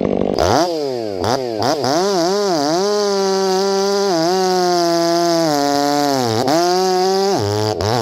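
Two-stroke chainsaw, the owner's '500', revving up to full throttle about a third of a second in and held high. Its pitch sags and recovers several times, as under load, and it runs nicely by the owner's account.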